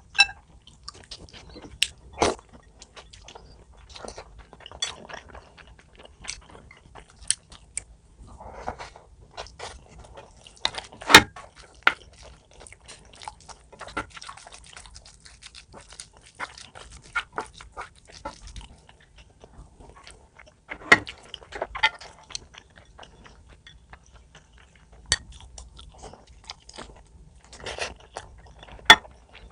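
A person eating close to the microphone: chewing and biting with irregular crunches, and a few sharp clicks scattered through.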